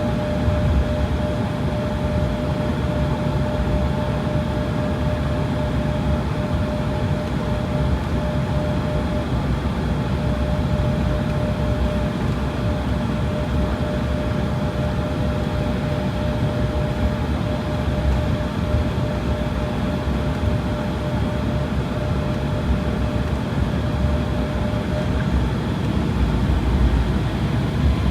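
Aircraft engine and airflow noise heard inside a passenger plane's cabin: a steady rumble with a steady whine that fades near the end.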